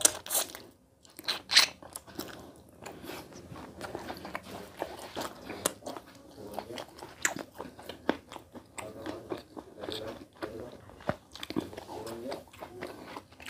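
Mouth sounds of a man eating rice and curry with his hand: chewing, with many sharp wet clicks and two louder ones in the first two seconds.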